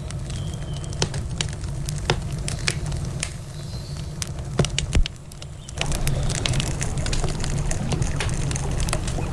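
Wood campfire crackling, with frequent sharp pops and snaps over a steady low rumble. The background drops briefly about five seconds in, then comes back louder.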